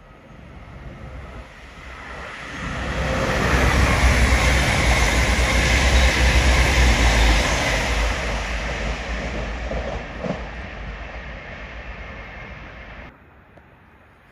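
East Midlands Railway Class 222 Meridian diesel multiple unit running non-stop through the station at speed. A deep rumble and rail noise build as it approaches, are loudest for several seconds as it passes, then fade as it draws away. The sound cuts off suddenly near the end.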